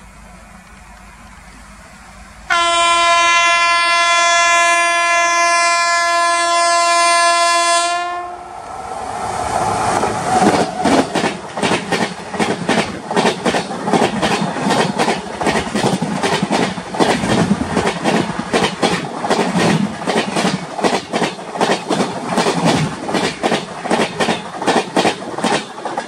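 A WAP-7 electric locomotive's air horn sounds one long, steady blast starting about two and a half seconds in. The express train then runs past close by at about 120 km/h, its wheels clattering over the track in a rapid, even rhythm to the end.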